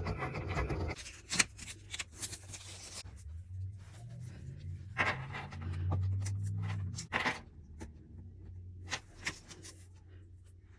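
Scattered light clicks, scrapes and rustles, the sound of small objects being handled, over a low hum that swells for a couple of seconds in the middle.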